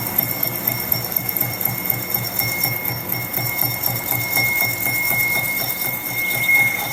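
A machine running, with a steady high whine over a rhythmic low thudding of about three to four beats a second.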